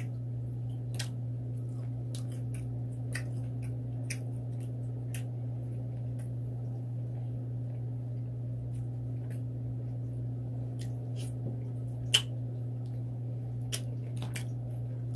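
Eating a seafood boil of snow crab and shrimp: wet chewing with scattered squishes and clicks over a steady low hum, and one sharper click about twelve seconds in.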